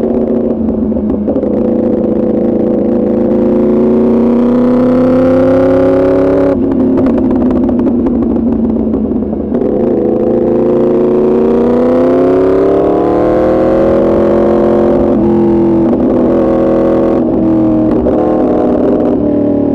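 2024 Yamaha R1's crossplane inline-four through an Arrow Pro Racing exhaust, under way. The engine pulls with a slowly rising pitch, eases off about six seconds in, and builds again from about ten seconds in. A few short drops in pitch come near the end.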